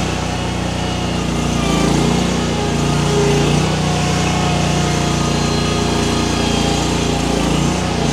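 Baumalight mini skid steer's engine running steadily under load while the machine works its grapple on a tree, the engine note wavering slightly.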